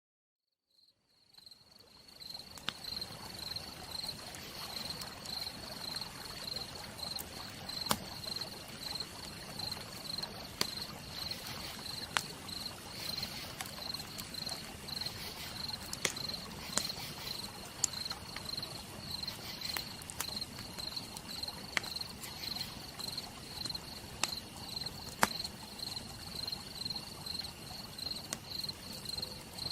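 Campfire crackling with scattered sharp pops over a steady hiss of rain, fading in during the first two seconds. A cricket chirps steadily in a high, even pulse throughout.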